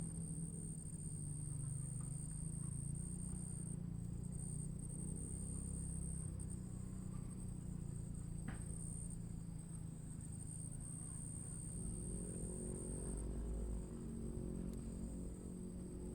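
Insects singing: a steady high-pitched trill, with a second, shorter chirp repeating about once a second, over a low rumble. A single click sounds about halfway through.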